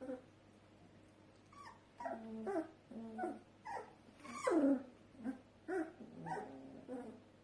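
Young puppies in a whelping box whimpering and yelping: a string of short, high cries, many falling in pitch, coming thick and fast from about two seconds in.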